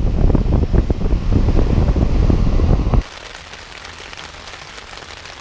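Loud wind buffeting on the microphone, a rough rushing noise full of crackles with heavy low rumble, which cuts off suddenly about three seconds in to a much quieter steady hiss with a faint low hum.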